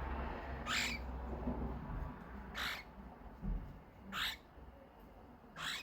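Cockatiel screeching: four short, harsh calls spaced about a second and a half apart.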